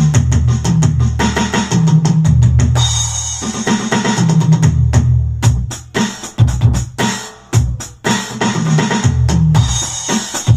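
Roland SPD-30 electronic drum pad played with a 3D drum-kit patch: a fast beat of kick, snare and rimshot sounds over deep bass notes. About three seconds in the beat thins briefly, and the second half has sparser, spaced hits and fills.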